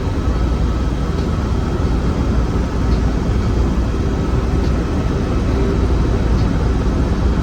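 Steady helicopter noise heard from inside the cabin in flight: a constant low rotor and engine rumble.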